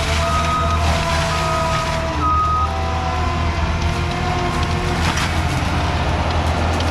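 Skid steer running steadily, its engine hum continuous, with a backup alarm beeping about once a second over the first few seconds while it reverses.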